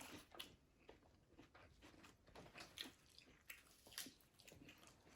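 Faint chewing and mouth sounds from someone eating, a scattering of soft wet clicks and ticks.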